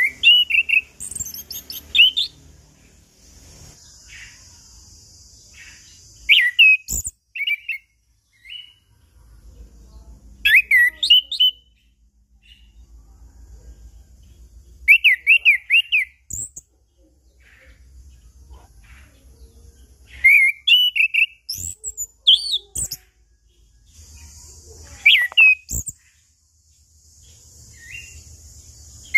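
Chestnut-capped thrush (anis kembang) singing: short phrases of quick, warbling whistled notes, each a second or so long, with pauses of a few seconds between them.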